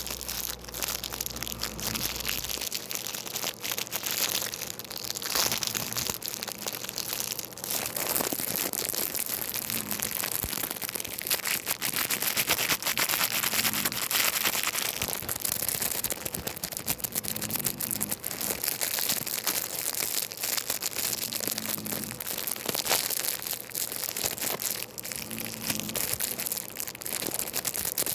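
Continuous crinkling and crackling from something being handled close to the microphone, made up of dense little clicks with no steady tone.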